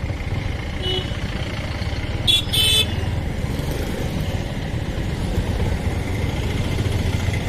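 Motorcycle engine running steadily while riding in traffic. A faint short horn toot sounds about a second in, then a vehicle horn honks twice in quick succession between two and three seconds in.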